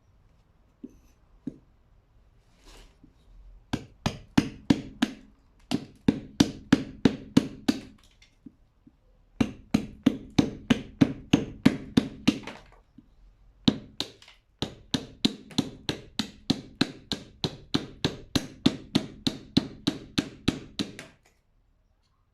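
Rapid, regular knocking, about five strikes a second, in three runs separated by short pauses, each strike with a short ring.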